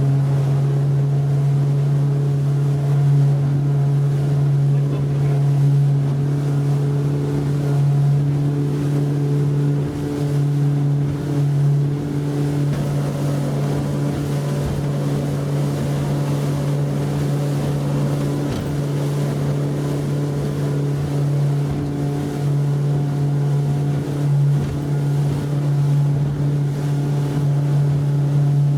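Yamaha F90C four-stroke outboard motor running at a steady high speed, a constant unchanging drone, with water rushing past the hull and wind on the microphone.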